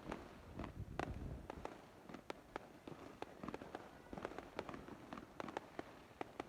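Fireworks going off: irregular sharp pops and bangs, several a second, over a low rumble.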